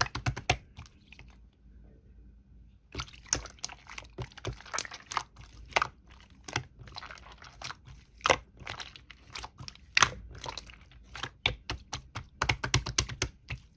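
Slime being squished and poked by hand, making a quick run of sharp clicks and pops, with a pause of about two seconds near the start.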